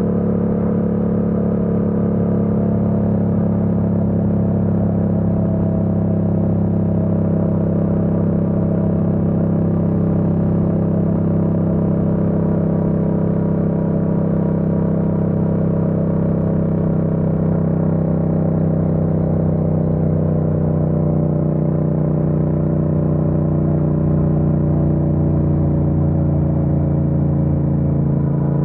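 Yamaha MT-07's 689 cc parallel-twin engine running at steady cruising revs, heard from on the bike; over the last third its pitch eases gradually lower as the revs drop.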